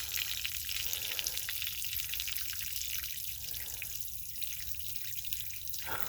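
Water pouring and dripping out of a punctured, water-logged HVAC duct line, a steady splashing trickle over a low hum.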